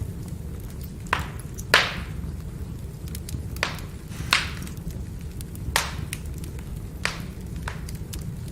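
Wood fire burning: a steady low rumble with sharp crackles and pops of splitting firewood, about seven clear ones spread unevenly, the loudest just under two seconds in, amid fainter ticks.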